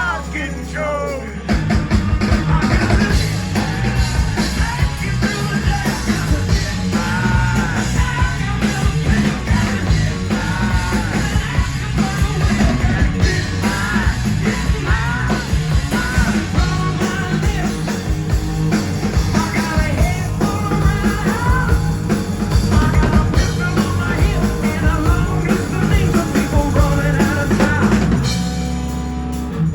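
Hard rock band playing loudly, with a pounding drum kit, bass and guitars under a lead singer's voice; the drums come in about a second and a half in.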